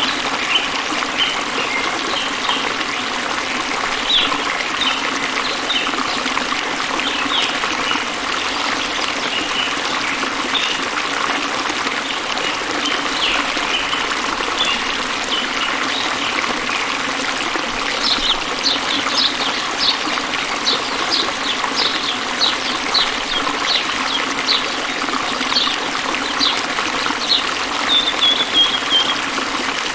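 Water trickling and flowing in a stream, with small birds chirping over it. In the second half a bird repeats a short high note over a dozen times in a row, and it ends with a short falling trill near the end.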